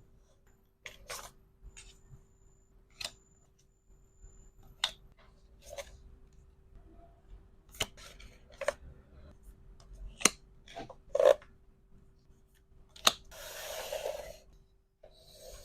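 Irregular small clicks, taps and snips from handling resin hair clips and their packaging, with a longer rustle of packaging near the end.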